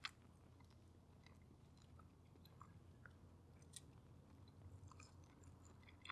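Faint chewing of a bite of cooked chicken breast, with small wet mouth clicks. A sharper click comes right at the start and again near the end, over a low steady hum.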